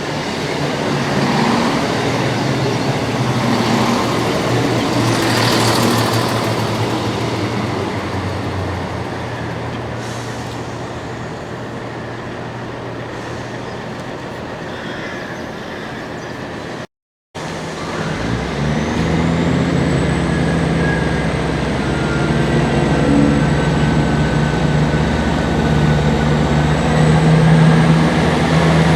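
Passenger trains at a station platform: a train rumbling along the track, swelling a few seconds in. After a cut, a diesel multiple unit's engine runs steadily with a low hum, and a faint high whine rises near the end.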